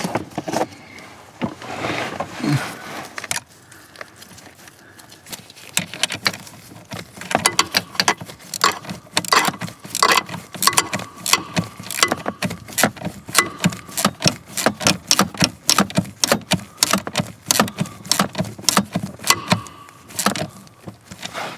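Sharp metallic clicks and rattles of hand tools working on a truck's gear shifter mechanism, coming fast, several a second, from about six seconds in.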